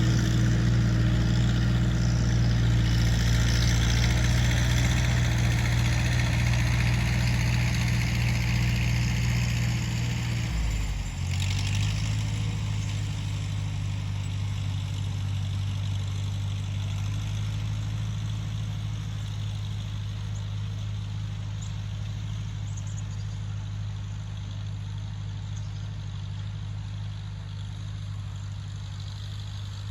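Tractor engine running steadily; about ten seconds in its note drops and shifts, then holds steady at the new speed while the sound grows gradually fainter.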